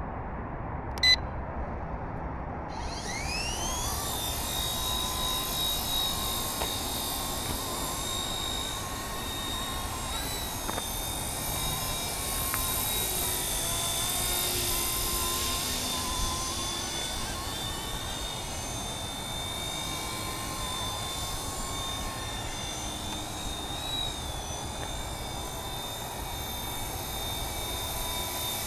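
Radio-controlled MD 500 model helicopter: a short beep about a second in, then the motor and rotor spool up with a rising whine about three seconds in and settle into a steady high whine, wavering slightly in pitch a couple of times.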